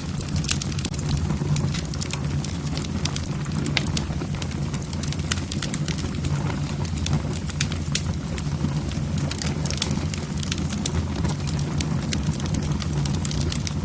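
Wood fire burning in a fireplace: logs crackling with many quick sharp snaps and pops, over a steady low rumble of the flames.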